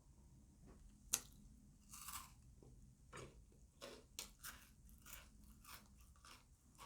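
Faint chewing of a crunchy Kit Kat wafer bar: one sharp snap about a second in, then a steady run of crunching bites.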